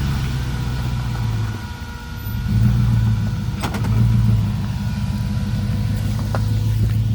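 2010 Toyota Tacoma's engine running at low trail speed, easing off about two seconds in and then pulling harder twice. Two short sharp knocks are heard along the way.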